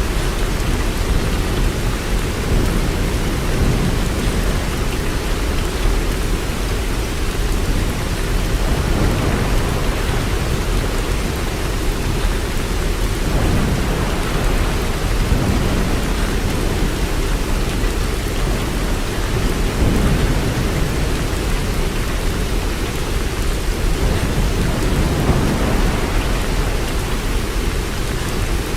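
Steady rain, a continuous even wash of noise heavy in the low end, with no single drops or claps standing out.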